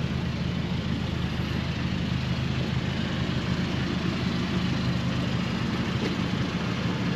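Nissan Hardbody pickup's KA24E four-cylinder engine idling steadily.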